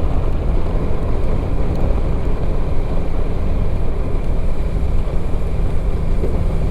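Motorcycle engine running steadily at cruising speed, mixed with wind rushing over the microphone.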